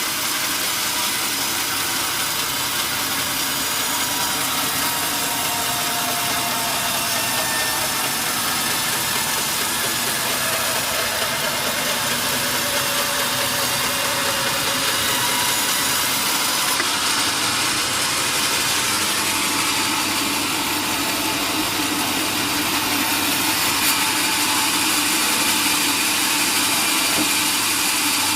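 Sawmill machinery running steadily, a continuous engine-like drone with faint tones that drift slowly in pitch.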